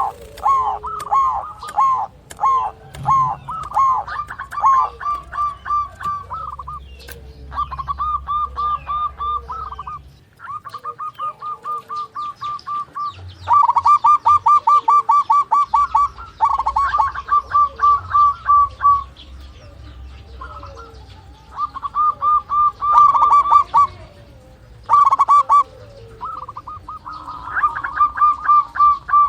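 Zebra doves (perkutut) calling: runs of quick, repeated staccato coos, each run lasting a second or a few, broken by short pauses.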